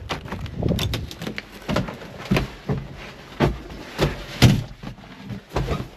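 A run of irregular sharp knocks and clunks, about a dozen of them, with the loudest about four and a half seconds in. They sound like a door and hard parts being handled while someone gets ready to start a small tractor; no engine is running yet.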